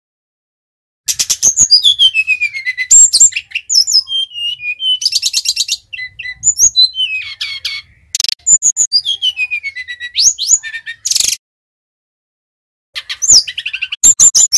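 Sikatan rimba dada coklat (a jungle flycatcher) singing: loud phrases of rapid high trills mixed with clear whistles that slide down in pitch. A pause of about two seconds comes near the end before the song starts again.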